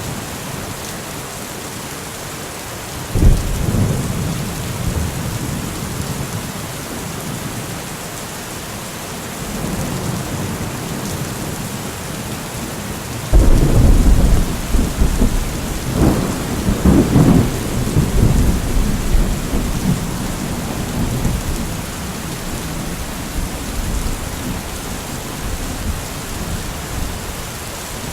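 Steady heavy rain hissing, with a sharp thunderclap about three seconds in and a louder, longer peal of thunder starting suddenly near the middle and rolling away over several seconds.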